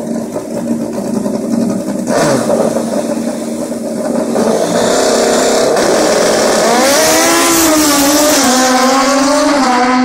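Drag-racing motorcycles on the strip: engines running steadily at first, then growing louder about four seconds in as they go to full throttle. The engine pitch climbs and drops back several times as they shift up through the gears.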